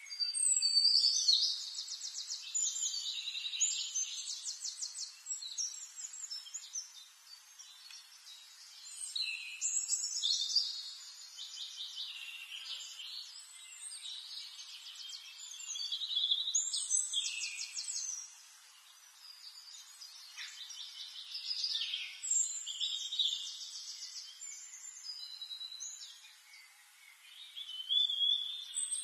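A songbird singing: high, rapidly trilled phrases repeating every few seconds, over a faint steady hiss.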